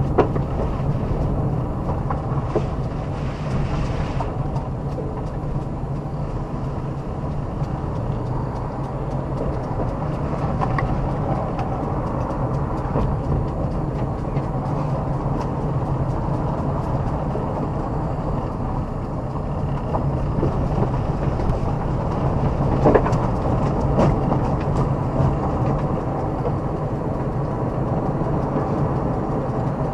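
Car driving along a forest road: a steady engine and tyre hum with a few small knocks and rattles.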